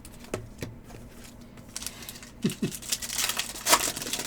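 Light rustling, crinkling and small clicks of trading cards and their wrappers or sleeves being handled, with a short burst of rustle near the end.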